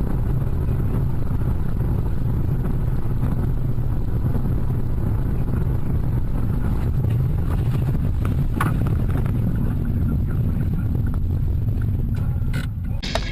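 A car driving, with a steady low rumble of engine and road noise. There is a brief knock about nine seconds in.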